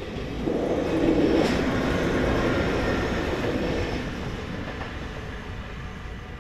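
A train passing over a level crossing: a rushing rumble that swells about half a second in and fades away over the next few seconds. Under it, the crossing's warning bells sound a steady ringing tone.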